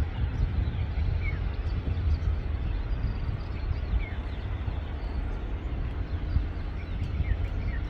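A steady, uneven low outdoor rumble with small birds giving short, scattered chirps over it.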